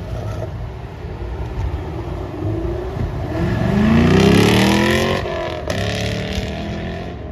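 A car engine accelerating, its pitch rising and getting louder, then dropping at a gear change about five seconds in before running on at lower pitch.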